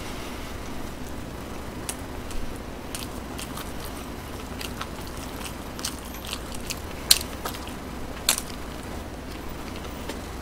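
Close-miked chewing: wet mouth clicks and smacks, sparse and irregular, the sharpest about seven seconds in, over a steady low hum. The fried food, which he calls soft and mushy rather than crisp, gives no dense crunch.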